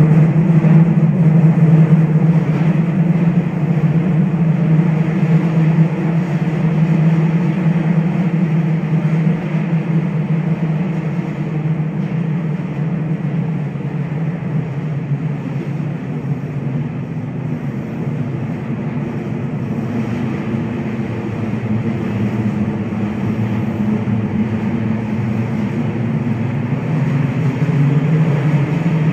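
Kintetsu rapid express train running through a tunnel, heard from inside the front car: a loud, steady rumble with a low hum. It eases a little midway and builds again near the end.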